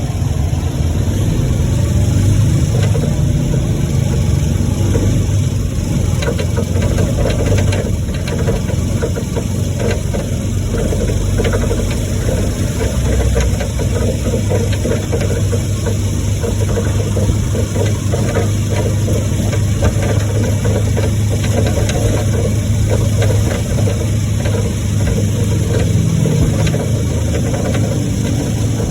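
An engine running steadily, a constant low hum with noise over it.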